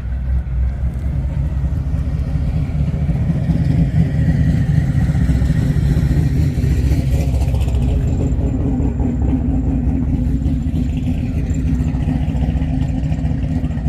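A car engine running close by, with a steady low rumble; the car seems to drive slowly past in the middle.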